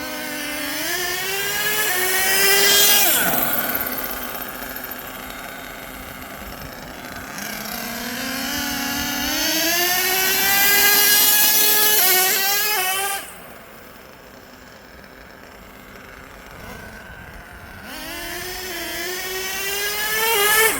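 Twin LRP .32 big-block nitro engines of an HPI Savage XL RC monster truck revving three times under throttle. Each time the pitch rises to a high whine, then drops back to a quieter, lower run.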